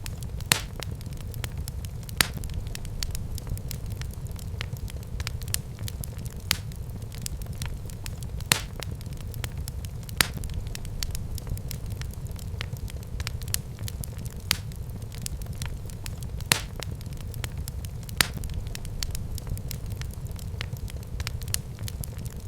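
Wood fire burning in a fireplace: a steady low rumble with crackling and sharp pops every second or two.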